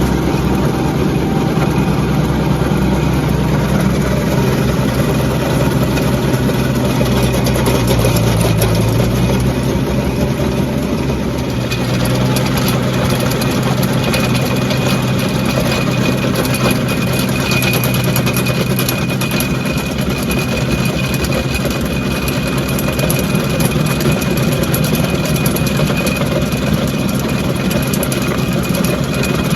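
Kubota B2650 compact tractor's diesel engine running steadily, with a slight change in its sound about twelve seconds in and a faint high whine from about halfway on.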